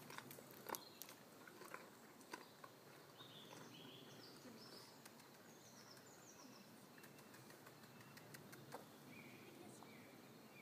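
Near silence: outdoor ambience with faint bird chirps, a cluster of short falling notes in the middle and a few more near the end. A few soft ticks come in the first second.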